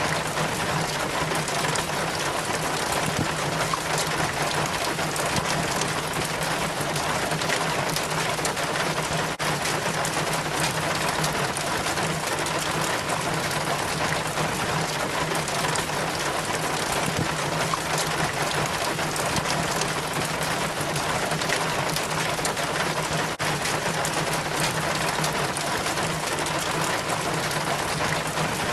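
Rainwater trickling and splashing down a rain chain from the gutter, a steady, even patter of falling water.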